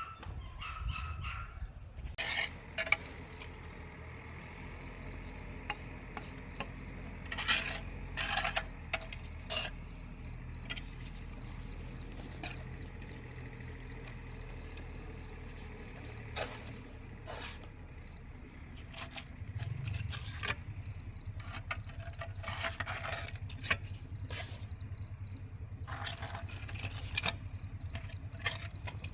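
Intermittent scraping and rubbing with sharp clicks over a low steady hum.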